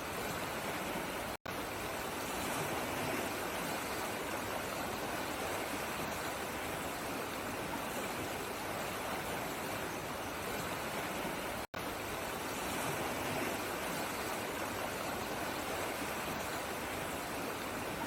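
Steady rush of flowing water, like a stream, with no other sounds. It cuts to silence for an instant twice, about a second and a half in and again near twelve seconds.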